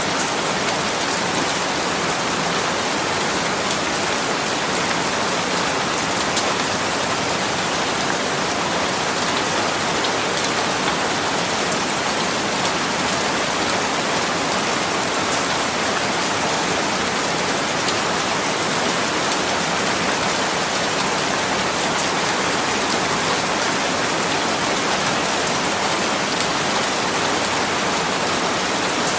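Steady rain falling and pattering on a surface, an even hiss with fine drop ticks that holds level throughout.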